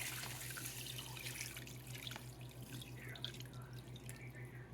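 Water pouring into the cooking pan, a steady splashing trickle with small drips, over a constant low hum.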